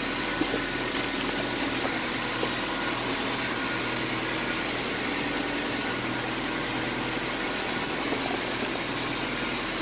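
Honda Civic four-cylinder engine idling steadily, running on a newly fitted replacement distributor.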